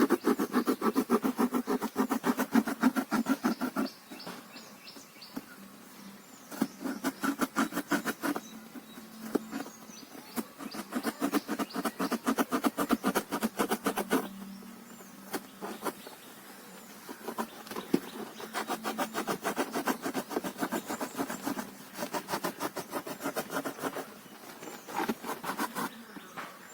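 Utility cutter blade sawing through cardboard in quick back-and-forth strokes, in several bouts of a few seconds with short pauses between them.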